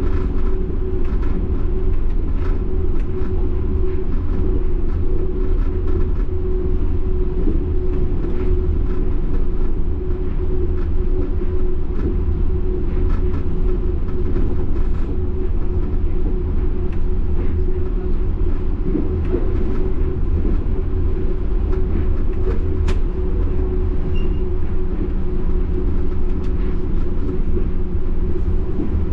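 Yurikamome rubber-tyred automated train running along its guideway, heard from inside the car: a steady low rumble with a constant droning tone over it and a few faint ticks.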